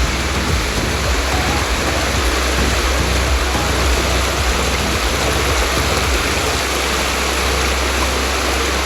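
Steady rush of a jungle stream's flowing water at the foot of a waterfall, with a fluttering low rumble underneath that stops about six seconds in.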